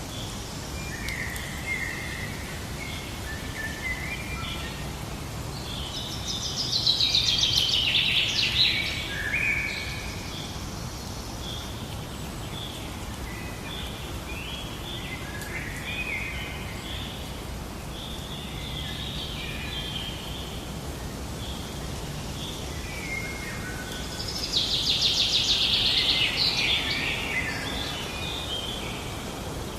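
Small birds chirping and singing over a steady background hiss, with two louder bursts of song, about six seconds in and again near the end.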